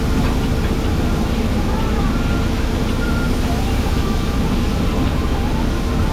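Steady low rumble of a running engine, with faint voices in the background.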